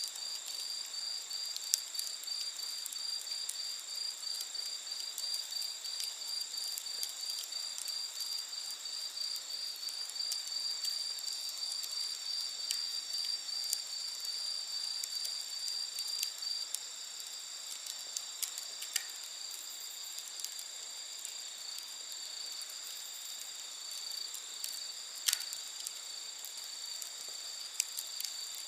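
Night insects singing in a steady high chorus. One insect chirps in an even pulse that stops about two-thirds of the way through. Occasional sharp pops and crackles of a wood campfire sound over it, the loudest near the end.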